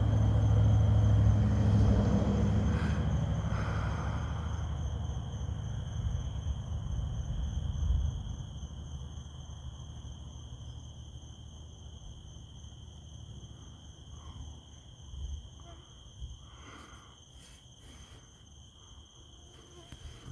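A long roll of thunder, loudest in the first couple of seconds, then slowly fading away over about eight seconds. Under it, night insects keep up a steady high-pitched trilling.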